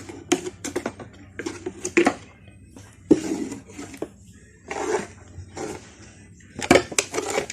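Irregular metallic clinks and knocks mixed with short bursts of scraping, as dirt and debris are cleared off the old car by hand.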